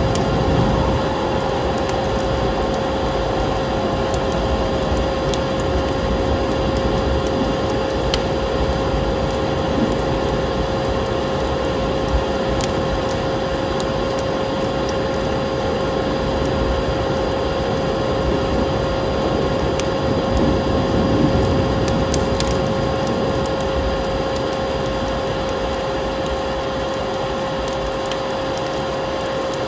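Wood fire crackling with scattered sharp snaps over a steady rush of storm wind, with a constant tone running underneath.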